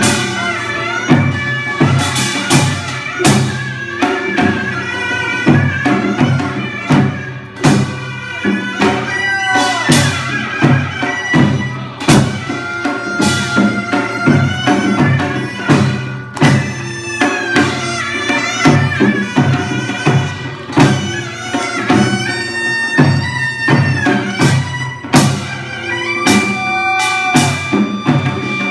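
Korean traditional music: a reedy wind instrument plays a bending, held melody over steady drum strokes.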